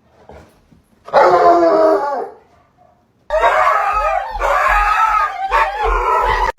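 A dog howling: one short howl about a second in, then a longer run of wavering howls from about three seconds in.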